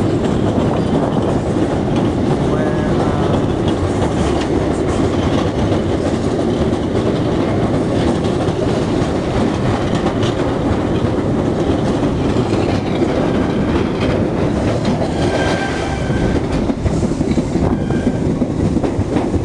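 Passenger train running steadily over a railway bridge: a continuous, loud noise of wheels on rails and the moving carriage, heard from inside the carriage at a window.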